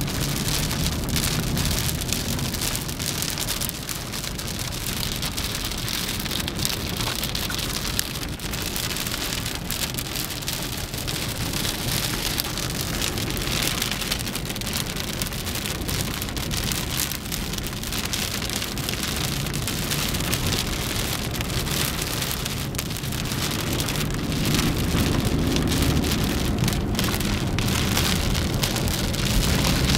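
Moderate to heavy rain falling steadily, with many individual drops pattering close by and a low rumble underneath; it grows slightly louder near the end.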